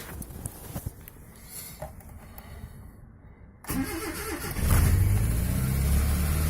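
Ford Laser engine cold start: after a few faint clicks, the starter cranks briefly about three and a half seconds in. The engine catches within a second and settles into a loud, steady idle.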